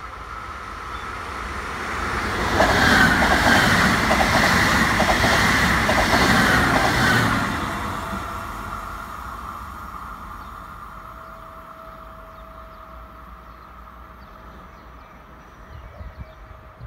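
Electric train passing close by at speed. A rush of wheel and rail noise with clatter builds over about two seconds, is loudest for about five seconds, then fades away as the train recedes.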